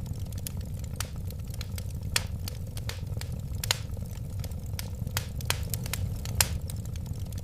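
Wood fire crackling: irregular sharp pops and snaps, several a second, over a steady low rumble of the flames, with a few louder pops about two, three and a half and six seconds in.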